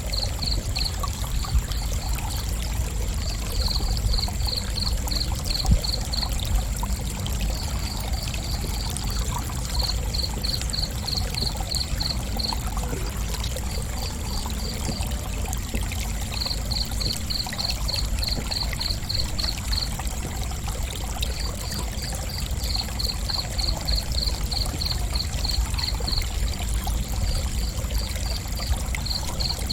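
Cricket chirping in runs of evenly spaced pulses, about three a second, with short pauses between runs. Under it is a steady high-pitched whine and a steady low rumble, like running water.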